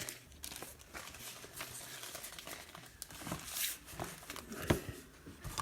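Foil trading-card pack wrappers crinkling and cards being handled, in scattered short rustles and ticks.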